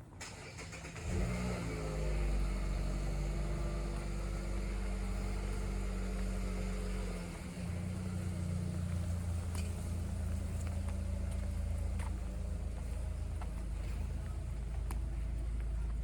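A car engine starts up close by about a second in and keeps running steadily, changing pitch about seven and a half seconds in.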